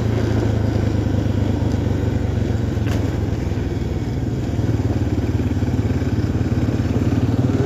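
Yamaha XT350 single-cylinder four-stroke dual-sport motorcycle engine running steadily under way, easing off briefly about four seconds in and then pulling again.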